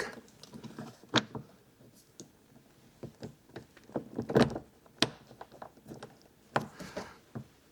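A motorhome door security lock being pushed and worked into its mount: a few sharp knocks with lighter clicks between, the lock not yet seating fully.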